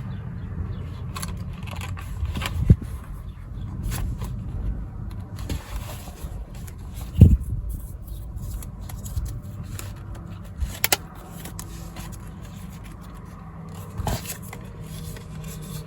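Handling noise of a traveler's notebook cover and its paper inserts being worked by hand: scraping and rubbing, with scattered sharp clicks and taps, the loudest a thump about seven seconds in.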